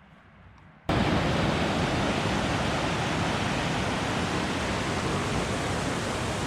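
Small battery-powered personal fan switched on about a second in and running at its highest setting: a sudden, loud, steady rushing noise.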